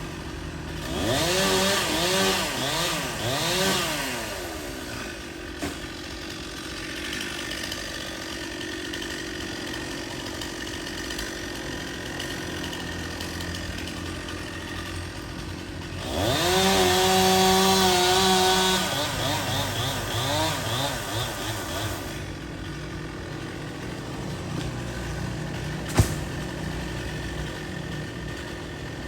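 Two-stroke chainsaw idling and revved in two spells, the second held at full speed for about three seconds. One sharp knock near the end.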